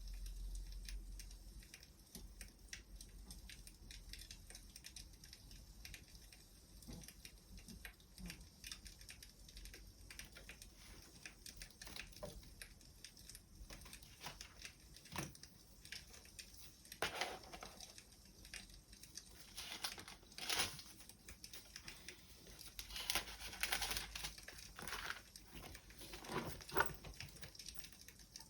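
Wood fire crackling: scattered sharp pops and snaps over a light hiss, busier and louder in the second half.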